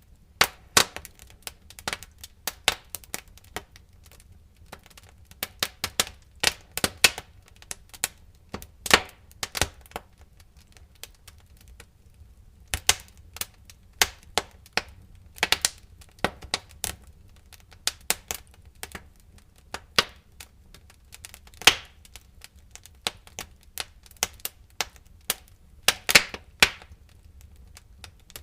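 Wood fire in a fireplace crackling, with irregular sharp pops and snaps, some in quick clusters, over a faint low rumble of the burning logs.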